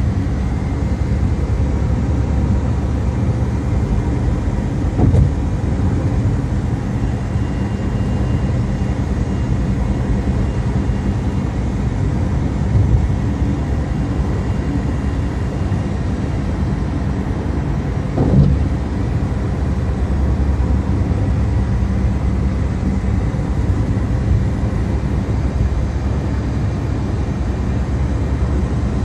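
Steady car engine and road noise while driving, a continuous low rumble, broken by three brief thumps.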